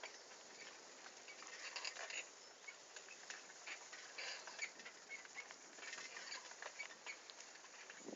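Faint, irregular clicking and crackling from a bicycle ridden along a forest dirt track: tyres on twigs and ground and the bike's rattle.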